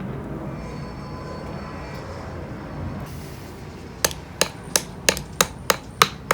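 A run of eight sharp taps, about three a second, starting about four seconds in, over a steady low hum.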